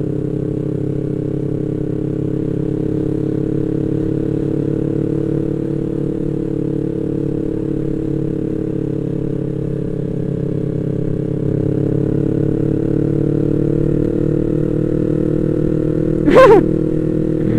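Yamaha MT-25's parallel-twin engine running steadily at cruising speed, getting a little louder about two-thirds of the way through. A brief voice near the end.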